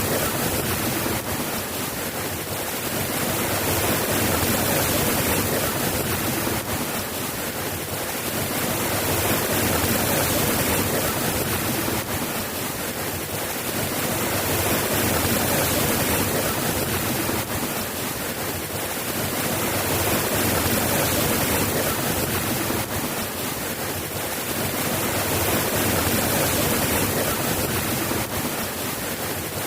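Steady rain: a dense, even hiss that swells and eases gently every five or six seconds.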